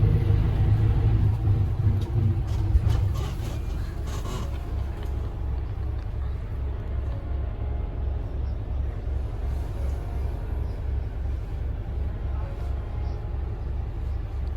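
Steady low rumble of a moving vehicle, with a soft regular pulsing. It is louder for the first few seconds and then settles to an even level.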